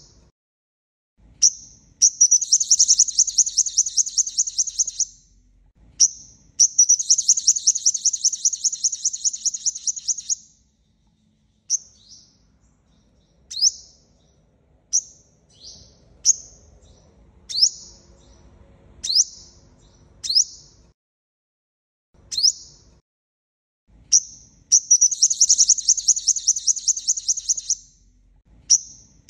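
Sunbird song: three long, rapid high trills of a few seconds each, about two seconds in, about six seconds in and near the end, with sharp single high chips between them. This is a decoy call used to lure wild sunbirds.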